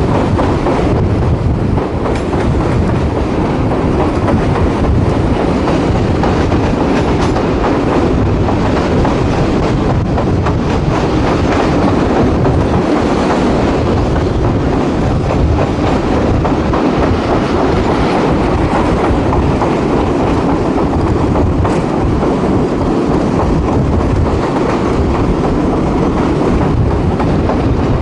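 Ride noise heard from inside the AES-11 railcar as it runs along the track: a steady, loud rumble with the clickety-clack of wheels over the rails and occasional faint knocks.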